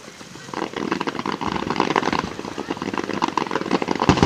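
Fireworks crackling: a dense, rapid run of pops that starts about half a second in and grows louder toward the end.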